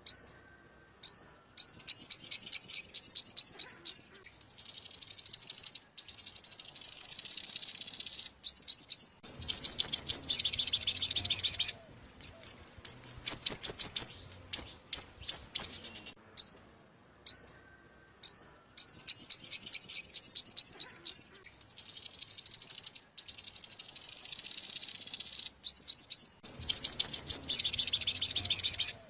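Sunbird song: bouts of rapid, high-pitched chirps and trills, a few seconds each, broken by short gaps that drop abruptly to silence, as in an edited, looped calling track.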